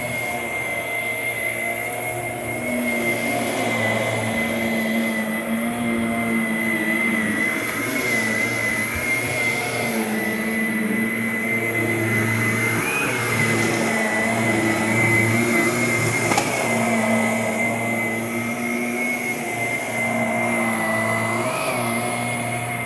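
Shark Navigator Lift-Away Deluxe upright vacuum cleaner running: a steady high motor whine with a lower hum that comes and goes.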